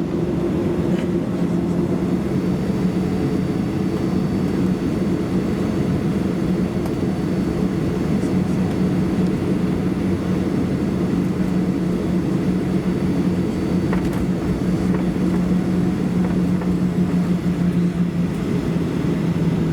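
Cabin sound of a Boeing 737-800 taxiing, heard from a window seat: its CFM56 jet engines running at low power as a steady hum and rumble with a low drone. A faint click about 14 seconds in.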